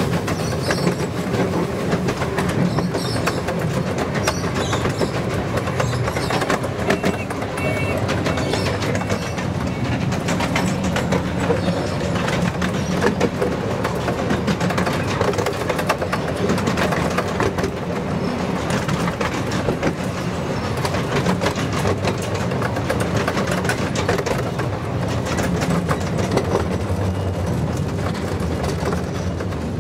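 Miniature railway train running along the track, heard from a carriage: a steady rumble of wheels with a fast, irregular clickety-clack over the rails.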